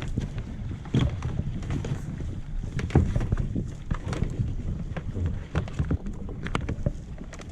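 Wind rumbling on the microphone with scattered, irregular knocks and clunks of gear and hull being handled on a boat.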